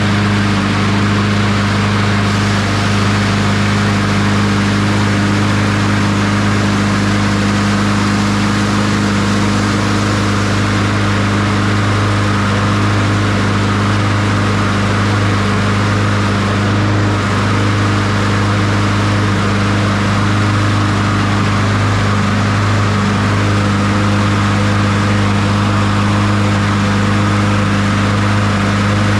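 Honda HRR216 push mower's single-cylinder engine running at a steady speed.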